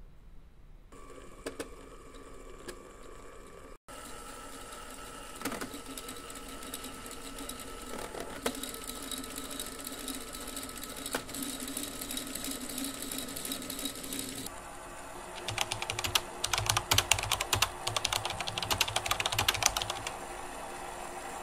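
Lego Technic gearbox driven by a Lego electric motor: a steady whine with plastic gears and universal joints turning. About two-thirds of the way in the sound changes to a fast clattering of plastic gear clicks.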